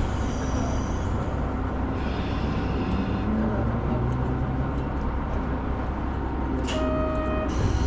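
KiHa 125 single-car diesel railcar running along the line, heard from inside the cabin: a steady low rumble of engine and wheels on rail. A short high tone sounds near the end.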